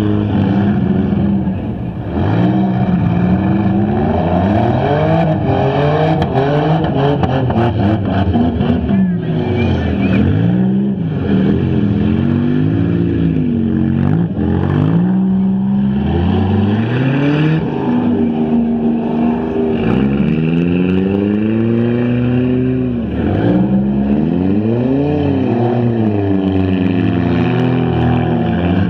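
Several stock front-wheel-drive race cars' engines revving up and down at once, their pitches rising and falling repeatedly and crossing over each other as the cars accelerate and back off around the track.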